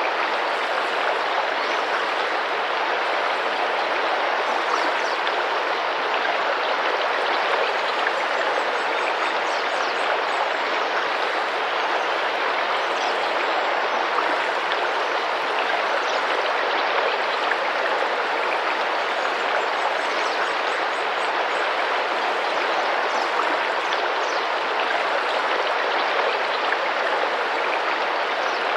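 Tropical rainforest river's water rushing and splashing over rocks at a steady level, with faint high-pitched calls twice, about a third and two-thirds of the way through.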